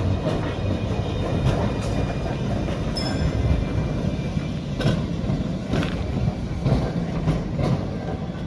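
Tram rolling into a stop, a steady low rumble with irregular clicks of the wheels over rail joints and points, and a brief high squeak about three seconds in.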